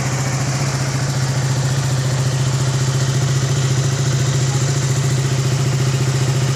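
KTM Duke 200's single-cylinder four-stroke engine idling steadily.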